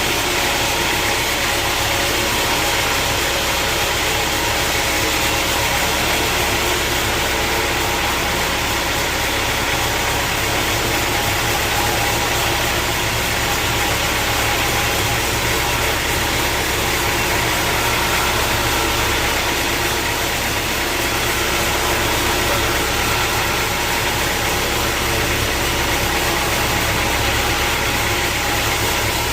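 Sawmill machinery running steadily: a constant engine-like drone that holds the same pitch and level throughout.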